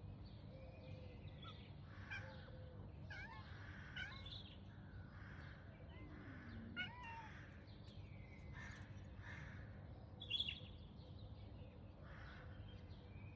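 A cat meowing faintly, a series of short calls, the loudest a little past ten seconds in.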